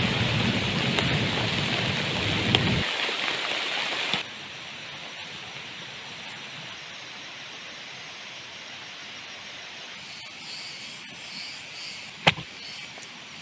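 Heavy rain pouring, with a low thunder rumble that dies away about three seconds in. About four seconds in, the sound drops abruptly to a much quieter, steady hiss. A single sharp knock comes near the end.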